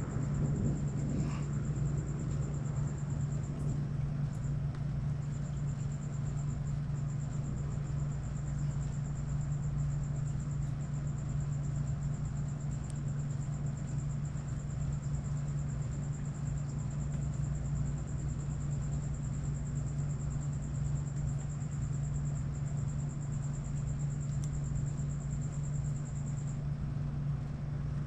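A steady low hum, with a thin high-pitched whine above it that stops near the end. The tail of a thunder rumble fades in the first second or two.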